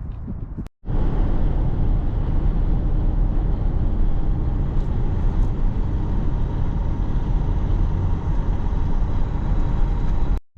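Steady, even rumble of a vehicle on the move: road and engine noise, heaviest in the low end, cut off by a brief silence just under a second in and again near the end.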